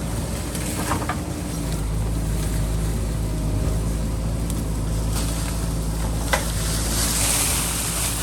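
JCB backhoe loader's diesel engine running steadily as it digs, with a couple of sharp knocks, about a second in and again past six seconds.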